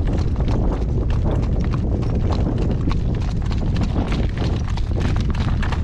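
Hoofbeats of a freshly shod horse, a steady clip-clop of its new horseshoes, over a constant low rumble.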